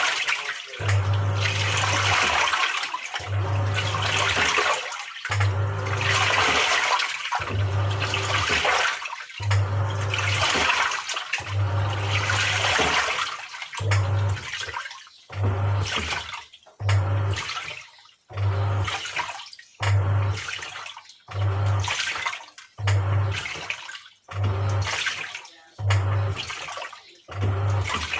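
Samsung 6.5 kg top-loading washing machine agitating: the motor hums as it drives the pulsator in repeated strokes and water swishes with each one. After about 14 seconds the strokes get shorter and come faster, about one every second and a half.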